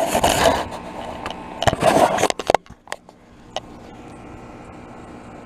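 Rheem Value Series 3-ton central air conditioner condenser running with a steady hum. For the first two and a half seconds it is covered by loud scraping noises close to the microphone.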